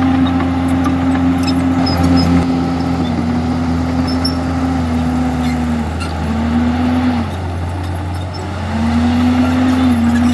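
Komatsu D51EX bulldozer's diesel engine running at high revs, its pitch dropping briefly around the middle and sagging for a couple of seconds before climbing back up near the end.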